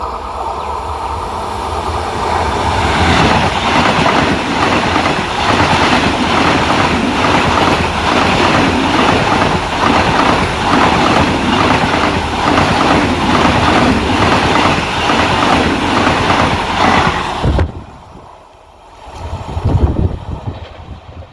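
Passenger train passing at speed, its wheels clattering over the rail joints in a steady rhythm as it builds up and goes by. The sound drops off sharply near the end, followed by a shorter burst of train noise.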